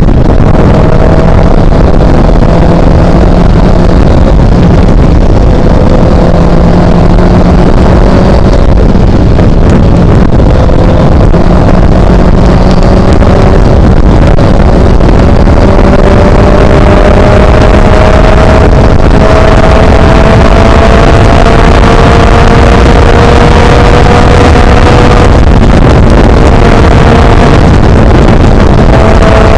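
Motorcycle engine and wind at highway speed through an Akaso Brave 7 LE action camera's microphone, loud and overloaded, with heavy wind rumble: the camera's poor sound on the road. The engine note climbs slowly and drops briefly about 25 seconds in.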